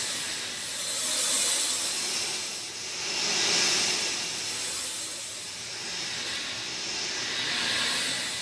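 Steady rain falling, an even hiss that swells and eases every two to three seconds.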